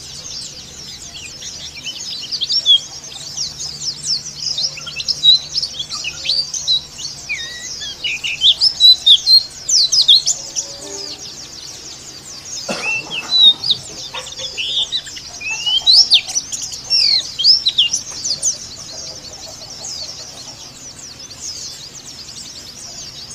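White-eyes (pleci) twittering, one bird giving rapid, rough chattering phrases of short high chirps in loud clusters over a steady background of many chirping white-eyes. One sharp click about halfway through.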